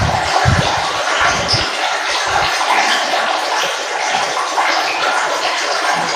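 Water flowing and trickling in a steady rush, with a few deeper gurgles in the first two and a half seconds.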